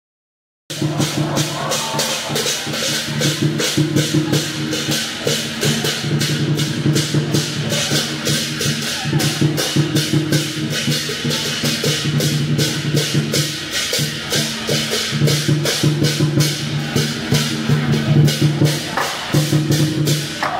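Percussion music with a fast, even beat of sharp strikes, about four a second, over a low held tone. It cuts in about a second in, after a short silence.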